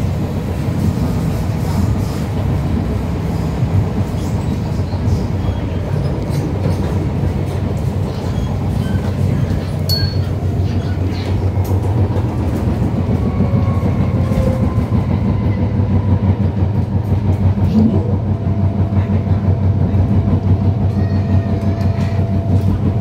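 Disneyland Resort Line train running along the track: a steady low rumble of wheels and running gear, with a faint steady whine coming in about three-quarters of the way through.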